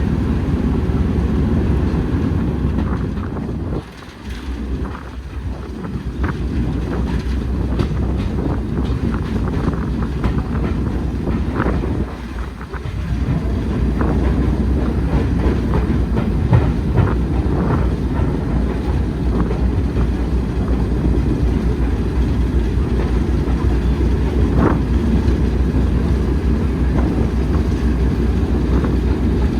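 Train running on the track: a steady low rumble with scattered clicks of wheels over the rails, dipping briefly about 4 and 12 seconds in.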